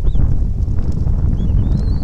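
A steady low rumble, like wind on the nest-cam microphone, with a few short high chirping bird calls: one just after the start and a rising run of chirps near the end.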